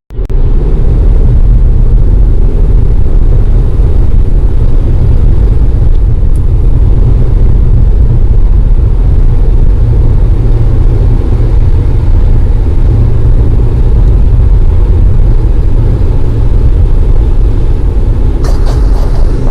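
Steady road noise inside a car cruising on the highway, heaviest in the low end, as picked up by a camera mounted on the inside of the windshield.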